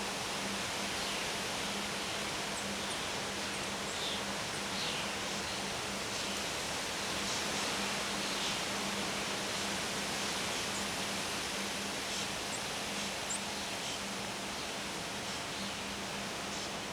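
Steady wind rushing through trees and leaves, an even, unbroken hiss. Faint short high chirps come and go, with a faint low steady hum underneath.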